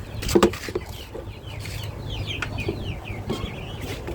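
A flock of chickens clucking and making many short high-pitched calls, with a short loud clatter about half a second in.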